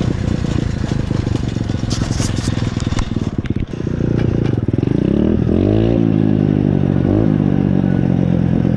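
Pit bike engine running under way through mud, with a run of knocks and clicks a couple of seconds in. The engine revs up twice past the middle, then holds at a higher, steady pitch.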